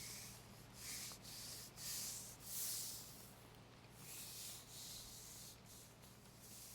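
Slow, soft rubbing strokes of hands on fabric close to a binaural microphone, the back-rub sound of comfort ASMR: a series of faint brushing swells, loudest about two to three seconds in.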